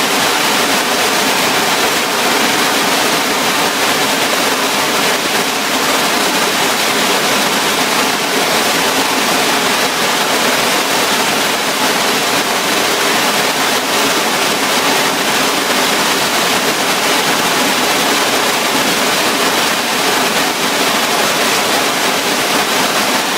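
Waterfall on a mountain stream, shaped like a check dam, pouring steadily: a loud, even rush of falling water.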